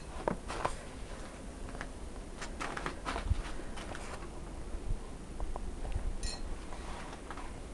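Storm wind buffeting the camera microphone, a low rumble with scattered clicks and knocks.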